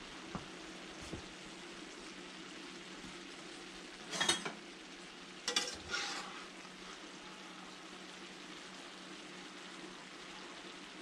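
Diced potatoes, vegetables and meat frying with a steady sizzle in a large cast-iron skillet. A utensil scrapes and stirs through the food three times, a little after the middle, louder than the sizzle.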